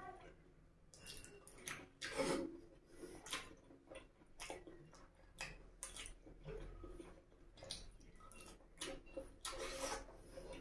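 Close-up wet chewing and mouth smacking of a person eating puri and spicy egg curry by hand, in irregular short clicks and squelches. Near the end he sucks curry off his fingers.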